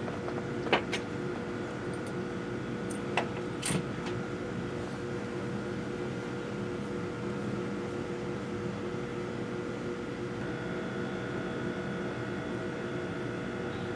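A steady machine hum made of several fixed tones, with a few short sharp clicks about a second in and again between three and four seconds in.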